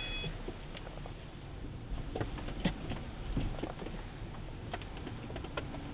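Inside a car stuck in snow among downed branches: scattered light ticks and taps over a low steady rumble.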